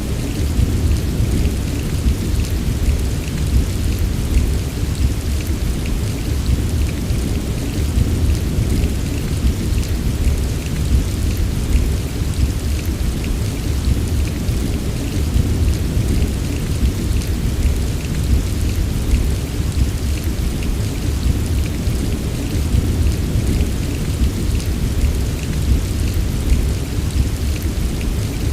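Heavy rain falling steadily, with a deep continuous rumble underneath and scattered fine drop ticks on top.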